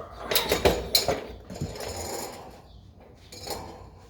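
Metal hand tools clanking and clinking: several sharp knocks in the first second or so, then a lighter metallic rattle that fades.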